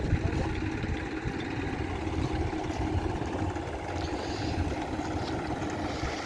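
An engine running steadily, typical of machinery at an asphalt road repair.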